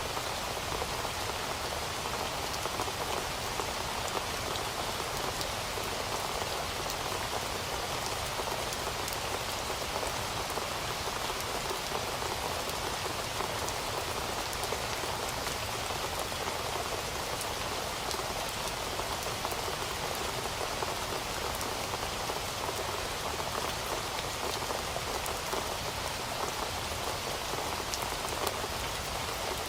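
Heavy rain falling steadily, a dense even hiss with many fine drop ticks on the surface.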